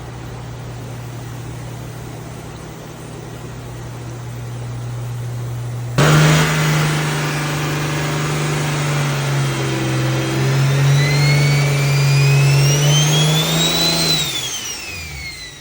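Single-turbo BMW N54 straight-six running: a steady low hum at first, then about six seconds in it abruptly gets much louder, the engine note held steady while a turbo whistle rises in pitch for several seconds and then falls away near the end.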